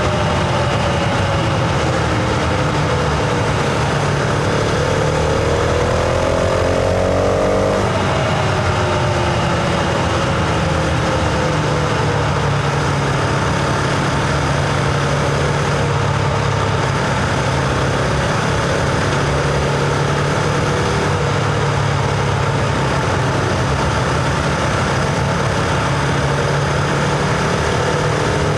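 Husqvarna Vitpilen 701's single-cylinder engine heard onboard while riding: the engine note falls off, climbs under throttle for a few seconds, drops sharply at about eight seconds as a gear is changed, then sinks slowly and settles into a steady note. Wind and road noise run underneath throughout.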